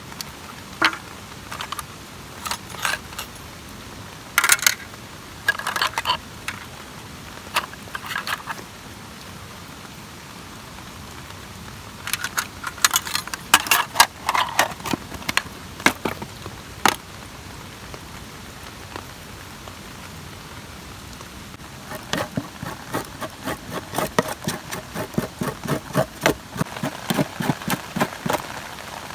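Steady rain hiss with scattered clicks and rattles. Near the end comes a fast, regular run of clicks, about four or five a second.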